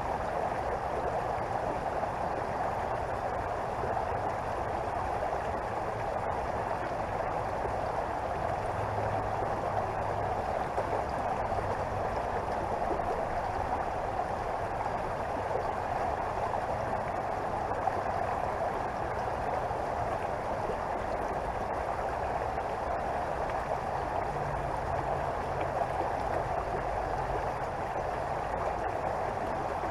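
Creek water flowing over rocks: a steady, unbroken rush.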